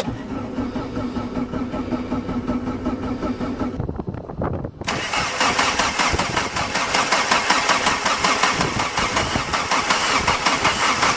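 A 1.6 turbo diesel Jetta engine being cranked by the starter for a cold start, with glow plugs preheated and the cold start lever on, after sitting unused for months in winter. It cranks for about four seconds, stops briefly, then cranks again more loudly and keeps turning over without yet running.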